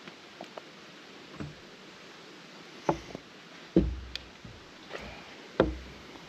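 A few light clicks, then three sharper knocks with a dull thump, each about a second apart, in the second half.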